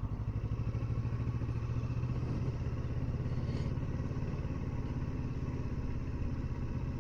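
Kawasaki Versys 650 parallel-twin motorcycle engine running steadily, its exhaust pulses even, with no revving up or down.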